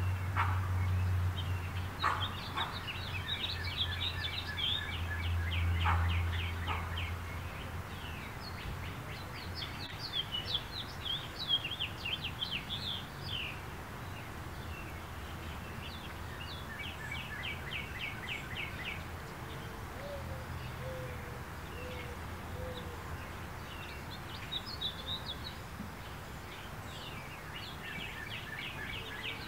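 Backyard songbirds singing: repeated bouts of rapid trills and chirps. A low rumble underneath fades out by about seven seconds in, and faint low repeated notes sound in the second half.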